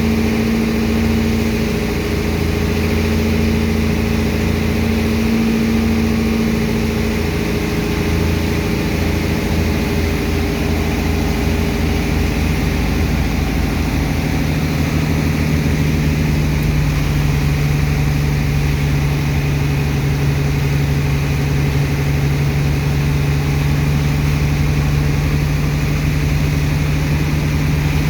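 Heavy engine of a sand-pumping dredger running steadily under load; about halfway through its note shifts and settles on a lower steady hum.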